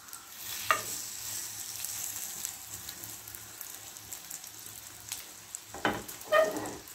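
Egg-dipped bread slice frying in hot oil in a nonstick pan, a steady sizzling hiss. A few short knocks come about a second in and twice near the end.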